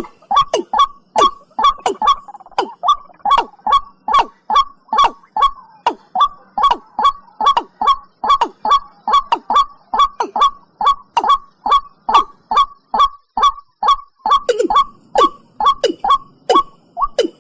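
Watercock (cúm núm) calling: a fast, even series of short notes, about three a second, each dropping sharply in pitch.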